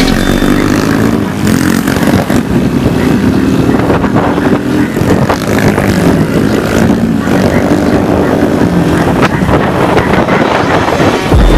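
Small motorcycle engine running close by, its pitch rising and falling as the throttle is worked.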